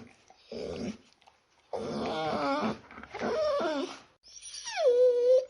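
Dog whimpering: a short sound, then three drawn-out, wavering whines, the last one dropping in pitch and then held steady.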